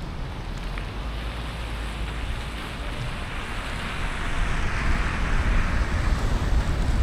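Car driving on a rain-wet road: steady low road rumble under a tyre hiss that swells louder from about four seconds in.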